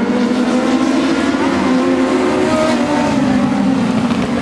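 A pack of dwarf race cars running hard around the track, their motorcycle-derived engines heard together at high revs. Several engine notes overlap, each rising and falling slightly.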